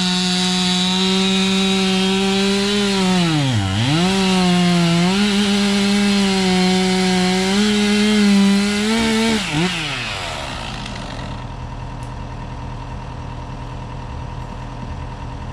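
Sawmill engine running at high speed while the saw cuts through a log. It bogs down sharply under load about four seconds in, recovers, then winds down to a low idle about ten seconds in.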